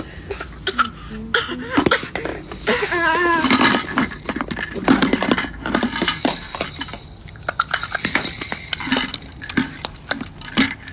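A baby making noises with her mouth: a run of sharp wet clicks and smacks, a short wavering squeal about three seconds in, and long breathy, hissing stretches in the middle.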